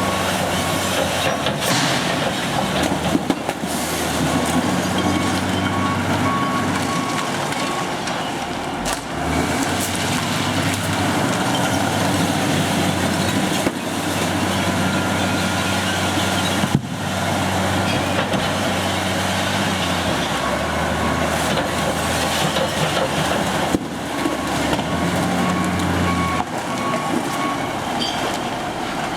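Recycling truck engine running, with a reversing alarm beeping on and off over it.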